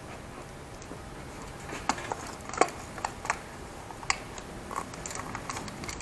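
Scattered sharp clicks and light metallic knocks of a pipe wrench being handled and set onto a PVC pipe stuck in cast refractory. They begin about two seconds in and come irregularly, the loudest near the middle.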